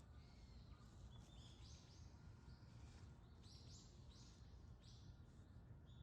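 Faint small-bird calls: about ten short, high chirps scattered through the few seconds, over a low steady rumble.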